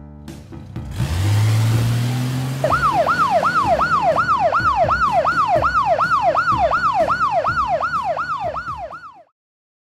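Cartoon vehicle sound effect: a low engine hum with a hiss starts about a second in, then an emergency-vehicle siren sweeps rapidly up and down, about two and a half times a second, and cuts off suddenly near the end.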